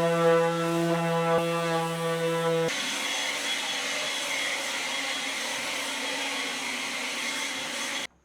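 Electric power tool motor running steadily with a strong whine. About two and a half seconds in it changes abruptly to a harsher, hissing sound with a high whine, which cuts off suddenly near the end.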